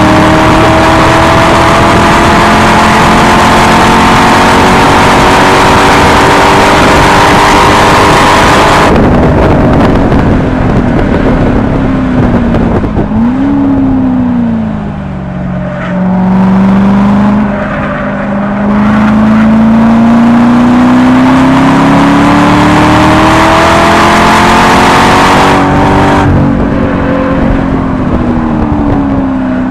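C6 Corvette Grand Sport's 6.2-litre LS3 V8, breathing through an NPP exhaust, pulling hard at high rpm, its pitch climbing slowly over heavy wind rush. About nine seconds in it lifts off for the brakes, with a brief rise and fall in pitch a few seconds later, then climbs steadily again under full throttle before lifting once more near the end.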